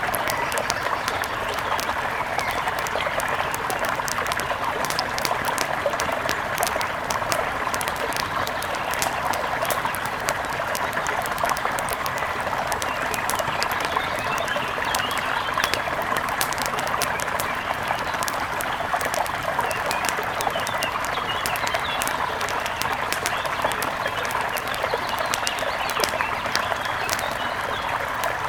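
A mountain river flowing with a steady rush, under a dense scatter of sharp little ticks and pops, while forest birds chirp, most in the second half.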